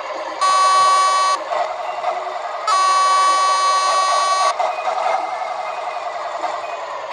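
Truck horn sounding twice over a running engine: a blast of about a second near the start, then a longer blast of nearly two seconds.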